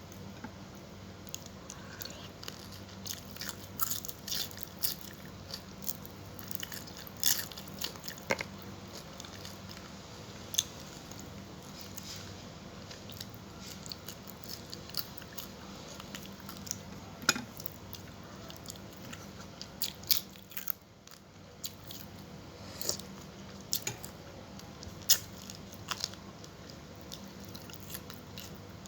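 A person chewing and biting food close to the microphone, with scattered crisp crunches and clicks, over a faint steady hum.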